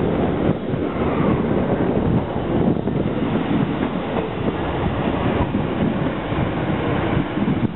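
ScotRail multiple-unit passenger train running past along the platform and pulling away: a steady, loud rumble of wheels on rails, broken by irregular knocks.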